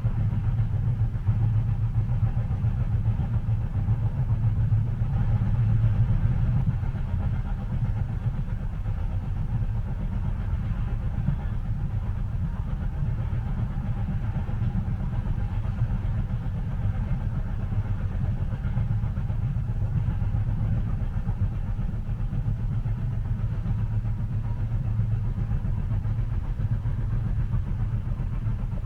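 Steady low rumble of a moving train heard from inside the passenger cabin, a little louder for the first several seconds.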